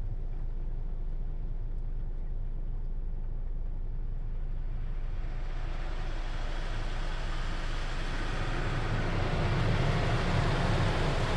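Car wash equipment running with a steady low rumble; about halfway through a hissing water spray builds up and grows louder.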